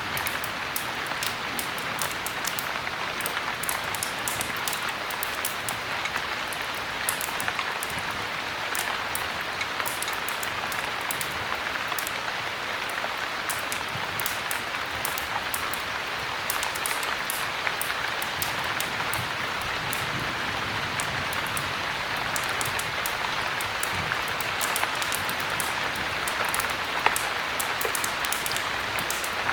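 Steady heavy rain, a dense even hiss scattered with many fine drop ticks, with a single louder tick a little before the end.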